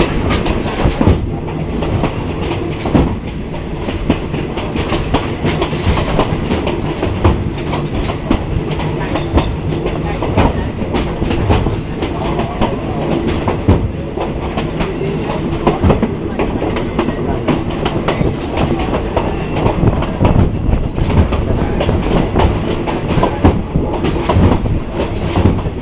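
Moving passenger train carriage rumbling steadily, its steel wheels clattering over the rail joints with frequent irregular knocks, heard from inside the carriage through an open window.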